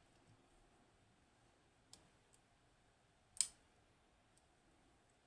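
Lock pick working the pins of a Hori Trident high-pin-count lock: a few sparse, sharp metallic clicks, the loudest about three and a half seconds in.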